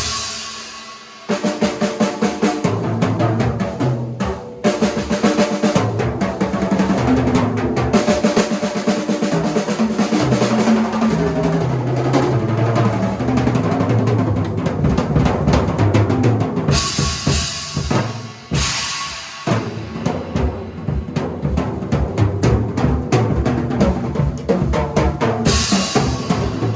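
A drum kit played in a warm-up: fast rolls and fills around the snare and toms, with the tom notes stepping down in pitch, over a bass drum. A cymbal crash comes about two-thirds of the way through and another near the end.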